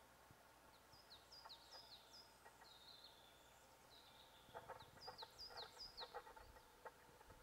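Faint songbirds calling: small birds repeating high, falling whistled notes in short runs, about a second in and again in the second half. A lower call repeats in quick pulses in the second half.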